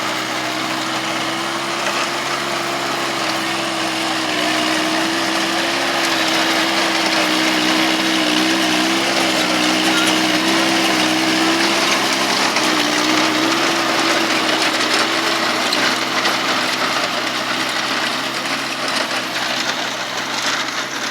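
VST Shakti tractor's diesel engine running steadily, its pitch holding level with slight wavers and getting a little louder in the middle.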